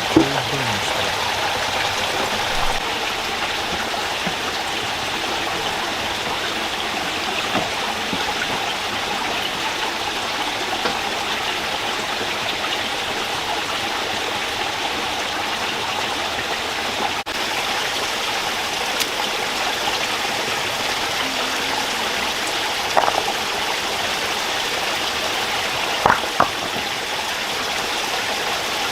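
Rocky stream rushing steadily over stones, with a few sharp knocks near the end.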